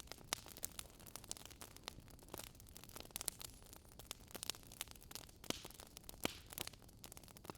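Wood fire crackling: irregular sharp crackles and pops, several a second, over a soft steady hiss.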